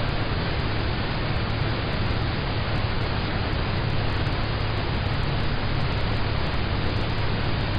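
Rain falling on a car's roof and windows, heard from inside the cabin as a steady, even hiss.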